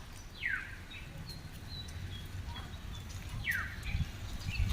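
A bird calling twice, each call a short downward sweep, about three seconds apart, over a steady low rumble.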